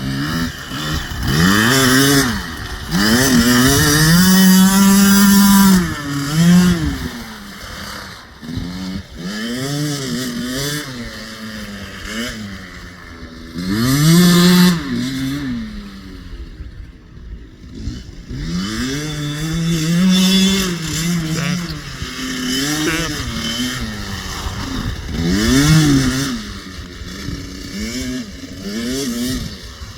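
Husqvarna TC65 65cc two-stroke dirt bike engine revving up and dropping back over and over as the bike accelerates, shifts and slows, several rising runs, fading and returning as it moves about.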